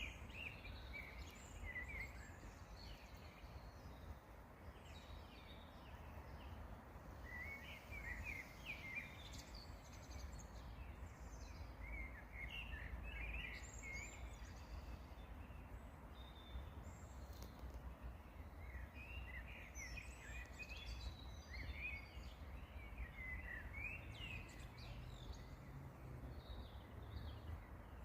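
Wild birds singing outdoors in short bursts of chirps and trills, coming in clusters with pauses between, over a faint steady low rumble.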